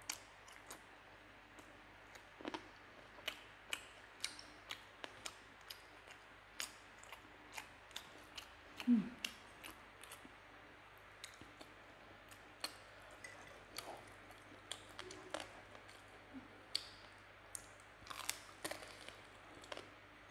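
Close-up eating sounds of someone chewing chicken wings: many small scattered smacks and clicks of mouth and fingers. A short low hum of the voice about nine seconds in is the loudest sound.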